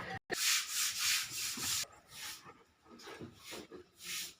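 German shepherd puppy close to the microphone making rubbing, rustling noises: one long noisy stretch, then several short uneven bursts.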